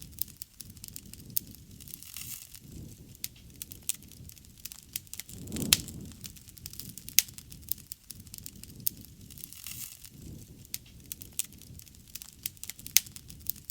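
Wood fire crackling, with frequent sharp pops and snaps over a low rumble that swells briefly about six seconds in, joined by a loud pop.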